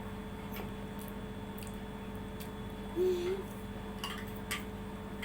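People eating from bowls: a few faint spoon clicks, and a short hummed 'mm' from one of the eaters about three seconds in, over a steady low hum.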